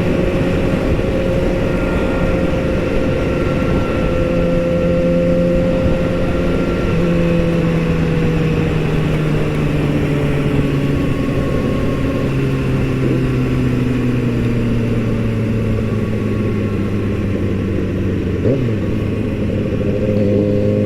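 Motorcycle engine running under way, its pitch easing down over a few seconds as the bike slows, then holding steady, over heavy wind and road rumble. A brief rise in engine pitch comes near the end.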